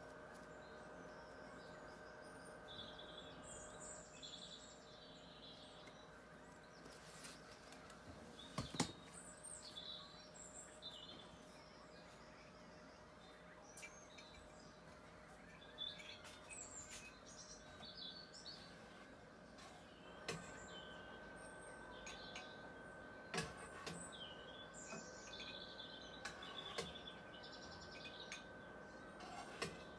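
Faint birdsong: small birds chirping and twittering in short scattered phrases over a low steady hum. A few sharp clicks, the loudest about nine seconds in.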